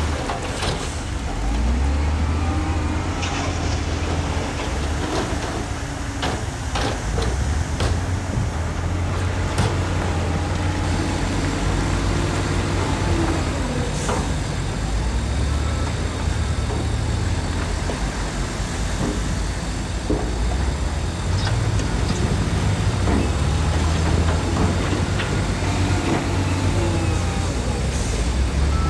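Diesel engines of heavy earthmoving machinery, bulldozers and dump trucks, running and working under changing load. Scattered metallic clanks and knocks come through, most of them in the first third.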